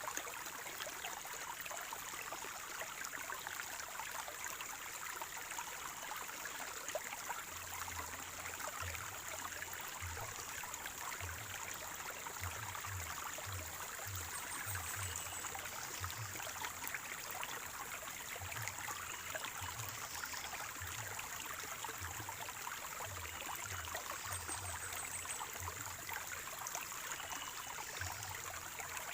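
Water from a natural spring gurgling and trickling steadily, a constant running-water noise that does not change.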